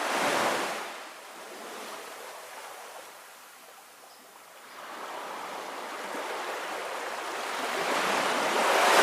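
Ocean surf washing onto a sandy beach. One wave's rush fades in the first second, a quieter lull follows, and another surge builds from about the middle to a peak near the end.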